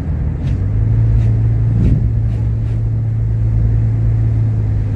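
Motor vehicle running: a steady low engine hum over road rumble, with a few faint clicks.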